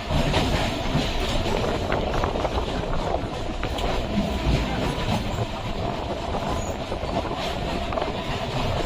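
Electric suburban train running along the track: a steady rumble with rattling from the carriage and wheels.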